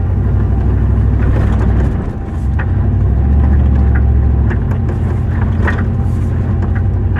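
Vehicle driving, a steady low engine and road rumble with scattered short knocks and rattles. It dips briefly about two seconds in, then runs a little louder.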